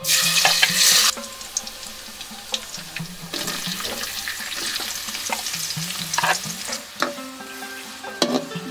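Chopped garlic dropped into hot oil in a metal wok, sizzling loudly for about a second before settling to a steady frying sizzle. A few seconds in, sliced onions go in and the sizzle grows, with knocks from a spatula stirring near the end.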